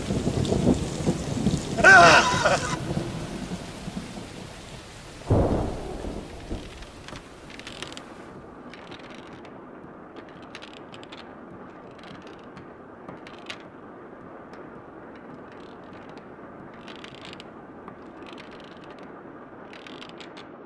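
Rain and thunder: a loud burst about two seconds in and a rumble of thunder about five seconds in, then rain falling steadily and more quietly.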